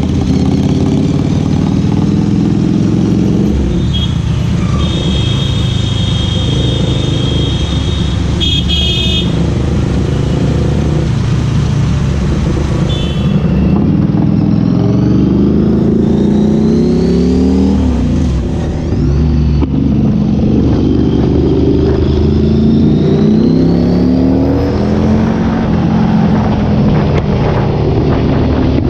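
Ducati Scrambler Cafe Racer's air-cooled L-twin engine and exhaust under way on the move. In the second half its pitch climbs again and again as it accelerates up through the gears.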